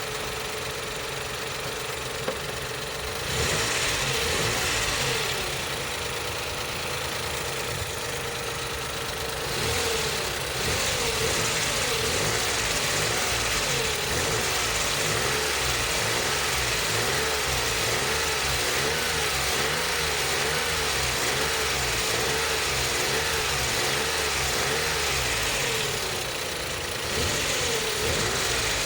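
Suzuki Every DA64W van's engine running at a steady idle, its level stepping up slightly a few times.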